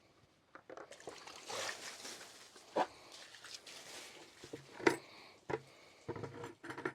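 Water being put on a freshly sawn post oak board, trickling and splashing over the wood, with a few light knocks.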